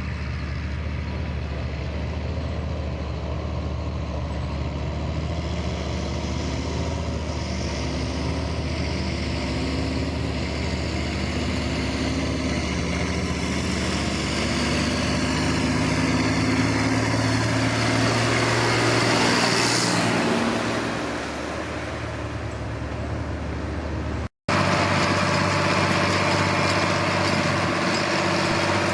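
John Deere 8400 tractor's six-cylinder diesel engine running steadily under load while pulling a disc harrow. It grows louder and passes close by about two-thirds of the way through, its pitch sliding up and then down as it goes past. Near the end the sound cuts abruptly to a steadier, closer engine drone.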